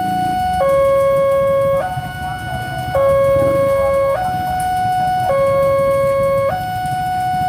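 Railway level-crossing warning alarm sounding a steady two-tone alternation, a higher and a lower note of about a second each, repeating over the low rumble of road traffic.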